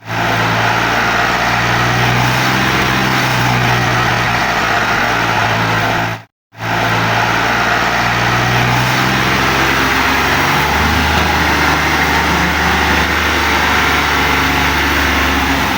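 Ford tractor engine running steadily under load as it pulls a loaded trolley through mud. The engine note drops lower about ten seconds in, and the sound cuts out briefly a little past six seconds.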